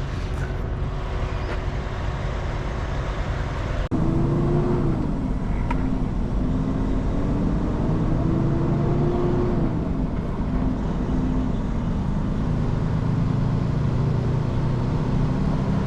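Heavy diesel engine running. After a cut about four seconds in, its note climbs steadily for several seconds, drops sharply, as at a gear change, then holds steady.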